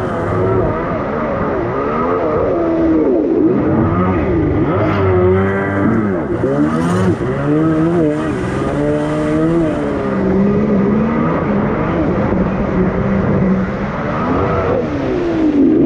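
Kawasaki X2 jet ski's 650 cc two-stroke engine running under way, its pitch rising and falling every second or two as the throttle is worked.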